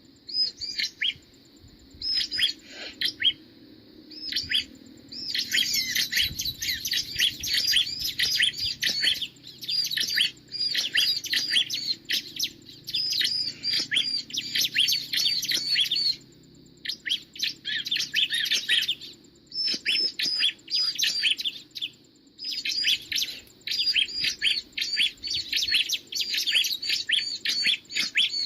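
Bar-winged prinia (ciblek) calling: fast runs of high, repeated chirps in bouts of several seconds, broken by short pauses.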